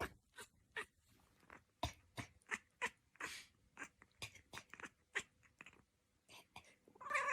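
A pet chewing something crunchy: a run of irregular sharp crunches, several a second. A pitched, drawn-out cry begins near the end.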